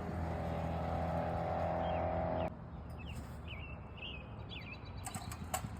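An engine running steadily, cutting off abruptly about two and a half seconds in, with birds chirping throughout and a few clicks near the end.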